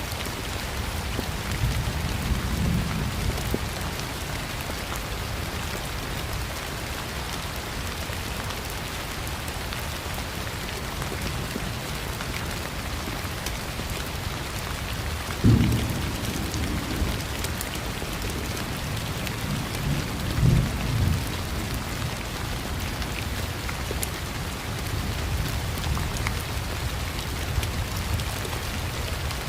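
Steady heavy rain falling, with thunder: low rumbles near the start, a sudden sharp clap about halfway, and another rolling rumble a few seconds later.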